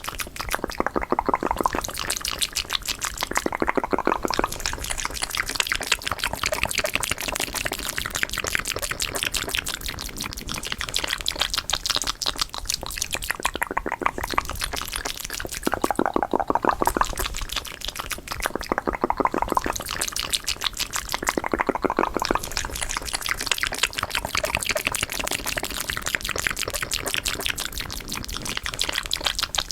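Fast, wet ASMR mouth sounds: a continuous rapid stream of clicks and smacks from the mouth, with louder patches every few seconds.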